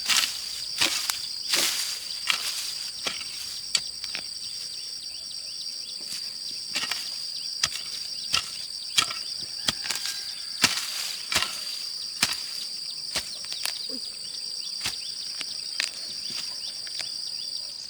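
Steady high-pitched insect drone, with irregular sharp knocks and snaps throughout, several a second at times.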